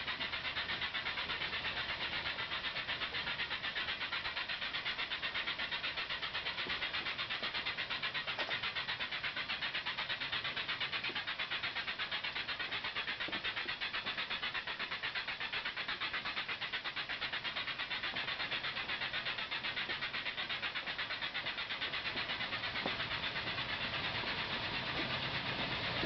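Dense chorus of insects, which the uploader takes for cicadas, overloading the camera microphone so that it sounds like a steam engine. It is a steady, fast, even pulsing hiss.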